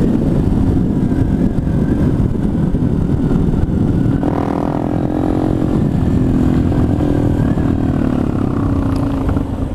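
Motorcycle engine running steadily under way, with heavy low rushing noise from the ride over it. Near the end the engine note eases off and the level drops.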